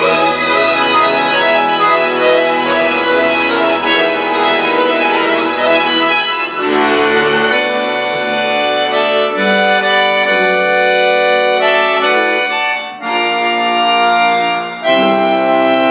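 Concert accordion playing in a concerto with wind instruments and chamber orchestra. About six and a half seconds in, the dense full texture thins to held chords, broken by two short breaks near the end.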